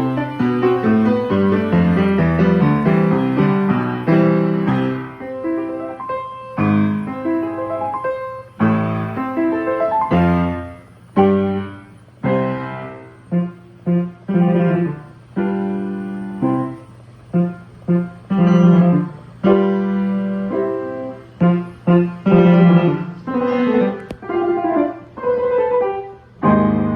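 Steinway XR Duo-Art reproducing piano playing by itself from its music roll: a flowing passage of chords and runs, then from about ten seconds in a string of short, detached chords separated by brief gaps.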